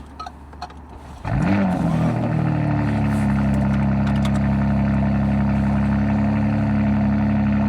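BMW M4's catless, twin-turbo inline-six starting about a second in, flaring briefly, then settling into a steady, loud high idle.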